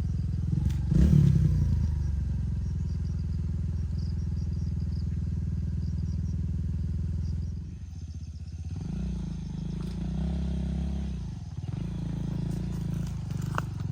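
An engine running steadily, its sound dipping and turning uneven about eight seconds in.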